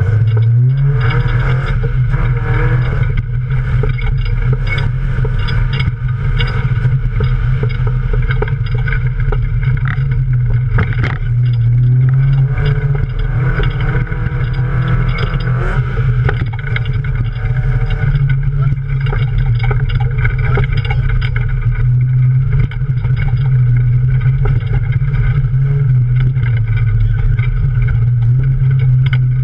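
Toyota Yaris rally car's engine heard from inside the cabin, running hard with a loud low drone whose pitch shifts up and down. Many short knocks and rattles come through from the body.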